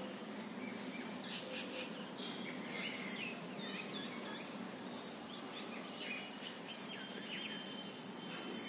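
Small birds chirping in the background, with a steady high whistle about a second in that is the loudest sound, then scattered short chirps over a faint low hum.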